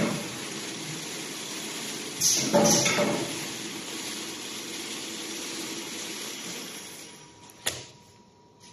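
Straw bundling packing machine running with a steady mechanical noise. A louder burst of noise comes about two and a half seconds in. Near the end the noise dies away and there is one sharp click.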